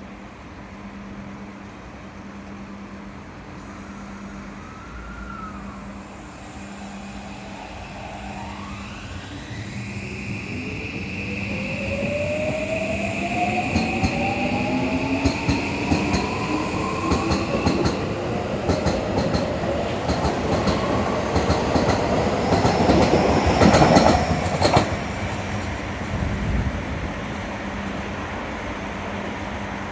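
Electric commuter train pulling out of the station. Its inverter-driven traction motors whine in pitch-rising tones as it speeds up from about a third of the way in. The wheels then clatter over the rail joints, loudest about four-fifths of the way through, and the sound eases as the train moves away.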